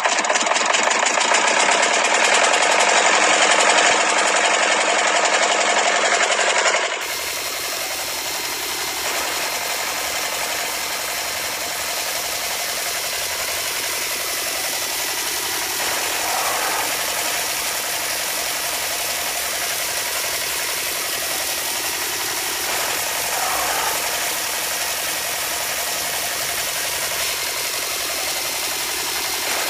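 Small motors of a DIY miniature model machine running with a fast, buzzing rattle. About seven seconds in, the sound cuts suddenly to a steadier, quieter motor hum as the belt-driven model and the small conveyor belt carry wheat.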